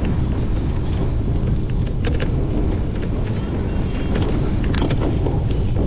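Wind buffeting the microphone over the steady rumble of a cyclocross bike riding over rough ground, with scattered sharp clicks and rattles from the bike.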